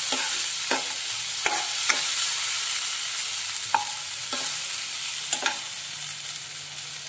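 Tomato and garlic sizzling in hot oil in a nonstick kadai, a steady hiss, with a steel ladle scraping and tapping the pan every second or so as it is stirred.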